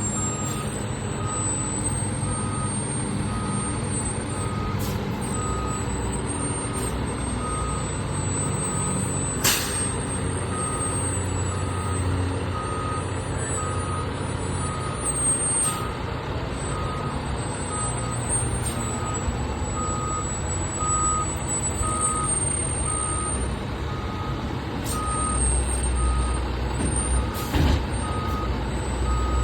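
Fire truck's reversing alarm beeping about once a second over its idling diesel engine. The engine grows louder in the last few seconds, and a sharp click is heard about ten seconds in.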